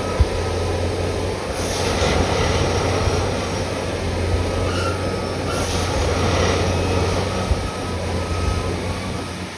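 Railway ballast tamping machine at work packing ballast under the track, a steady low drone from its engine with two short hissing bursts, about two and six seconds in.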